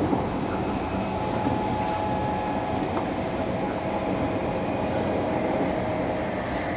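Running sound inside a motor car of a JR Kyushu 305 series electric train under way: a steady rumble of wheels on the rails with a faint, even whine from the VVVF inverter-driven traction motors.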